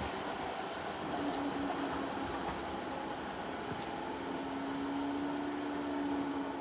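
Railway noise just after a train has passed: a steady rumble of a train moving away along the line, with a steady hum coming in about a second in.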